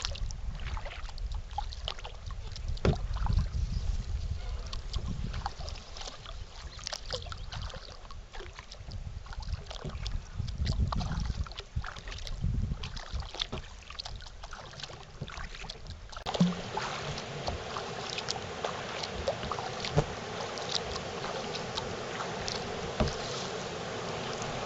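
Kayak being paddled, with the paddle blades splashing and dripping in short scattered strokes over a low rumble. About sixteen seconds in, the sound changes abruptly to a steadier hiss.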